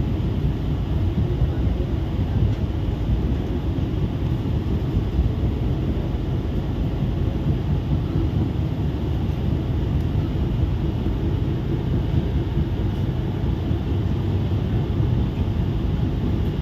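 Argo Parahyangan passenger train running at speed, heard from an open carriage window: a steady low rumble from the wheels and track, with wind rushing past.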